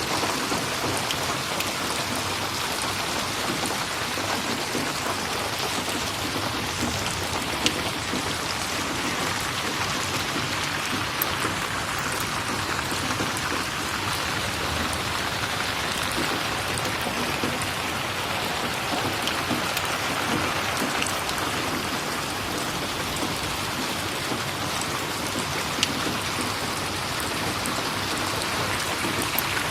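Steady rain falling on a surface, an even hiss with a few sharp isolated clicks.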